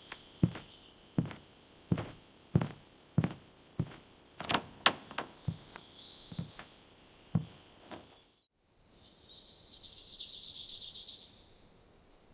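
About a dozen sharp knocks at a fairly steady pace, roughly one every two-thirds of a second, for about eight seconds, over a faint high steady note. After a brief gap, a high buzzing trill lasts about two seconds.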